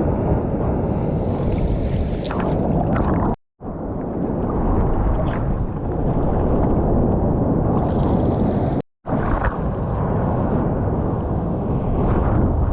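Water rushing and wind buffeting an action camera's microphone while surfing: a loud, dense rumble. It cuts out to silence twice, about three and a half and nine seconds in.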